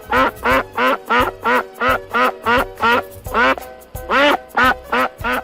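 Duck quacking in a rapid run of short calls, about three a second, with a brief gap a little before four seconds in, over cheerful background music.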